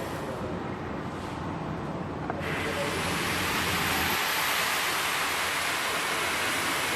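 A steady hiss comes on suddenly about two and a half seconds in and keeps going, over a low rumble that drops away about four seconds in.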